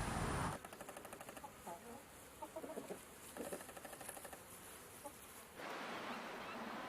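Chicken clucking in a few short calls over a fast, even ticking, between abrupt cuts to other recordings about half a second in and near the end.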